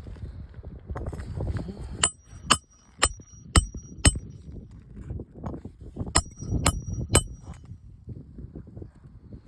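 Hammer driving roofing nails through an asphalt shingle, sharp ringing metal-on-metal blows: five strikes about two a second, a pause, then three more. Low rustling of handling in between.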